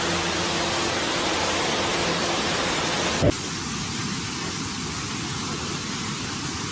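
Steady rushing hiss of water, cutting abruptly about three seconds in to a slightly softer rushing sound.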